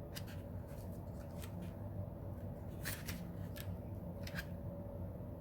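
Tarot cards being handled: several short, soft card slides and flicks scattered through, over a low steady hum.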